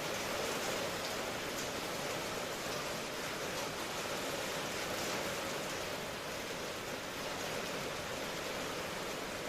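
Steady rain falling, an even hiss that stays level throughout.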